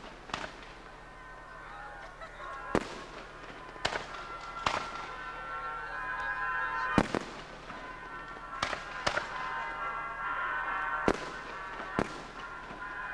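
Fireworks display: about nine sharp bangs of bursting shells at uneven intervals. Music of held, horn-like tones rises underneath from about a third of the way in and is loudest near the end.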